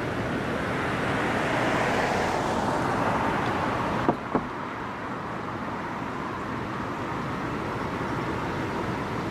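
A vehicle passing over the bridge, its tyre and road noise swelling over the first two seconds and then fading, above a steady rush of wind. About four seconds in there are two sharp knocks, a quarter second apart.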